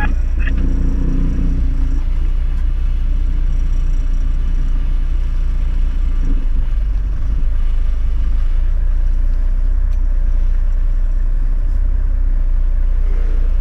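Four-wheel-drive vehicle's engine running with a steady low rumble.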